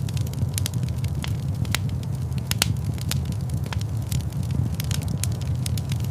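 Fire crackling in a large fireplace: a steady low rumble of flames under frequent, irregular sharp pops and snaps.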